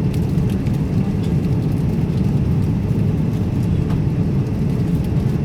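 Airliner cabin noise: a steady, even low rumble of the jet engines and rushing air, heard from inside the passenger cabin.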